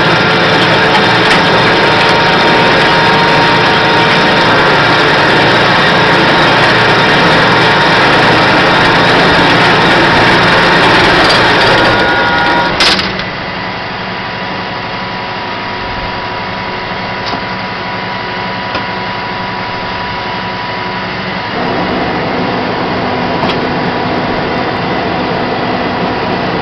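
Flatbed tow truck's engine and hydraulics running with a steady mechanical whir. About 13 seconds in there is a sharp click and the sound drops abruptly to a lower level, then steps up a little again about 21 seconds in.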